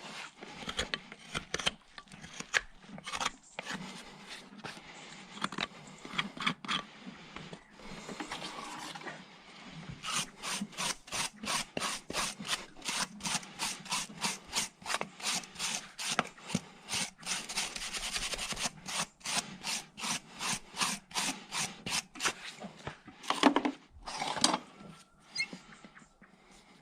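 A farrier's rasp filing a horse's hoof in repeated scraping strokes, uneven at first, then a steady run of about two to three strokes a second, with a couple of louder strokes near the end.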